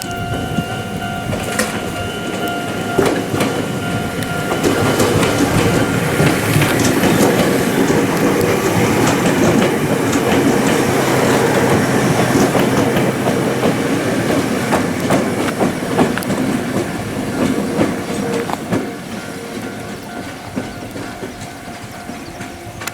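Ohmi Railway electric train passing, its wheels clattering over the rail joints; the sound builds to its loudest over the middle stretch and then fades as the train draws away.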